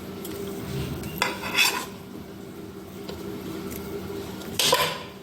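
Spoon and dishes clattering in two short bursts, one about a second in and one near the end, as diced banana is spooned into a blender cup, over a steady low hum.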